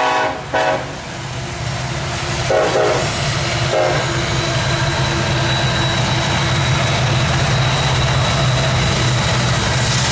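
Diesel locomotives of a Norfolk Southern intermodal train passing close by. A horn blast ends about half a second in, and two short horn toots follow around three and four seconds in. Then the engines and wheels run steadily, growing a little louder as the locomotives go by.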